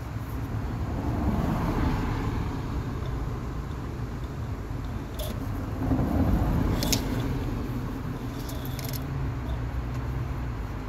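Steady low vehicle rumble, swelling a couple of times, with a few faint light clicks such as a car's oil dipstick being drawn out and slid back into its tube.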